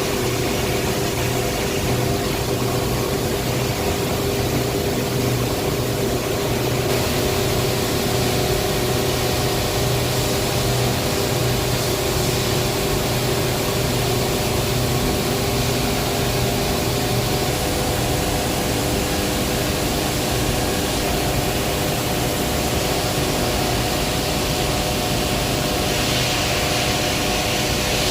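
Heavy industrial machinery running steadily: a low hum with several steady higher tones over a constant hiss, which grows brighter a few seconds before the end.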